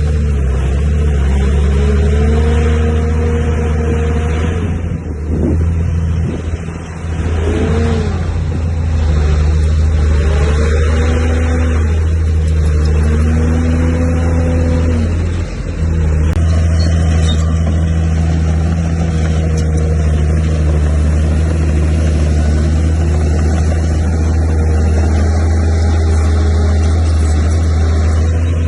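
Heavy diesel earthmoving machinery running under load, a steady low engine drone with its pitch rising and falling. A wavering higher whine glides up and down over it in the first half, and the sound dips briefly twice.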